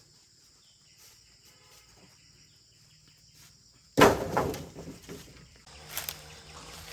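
A very quiet background, then a sudden loud bang or clatter about four seconds in that dies away over about a second, followed by a faint steady hum.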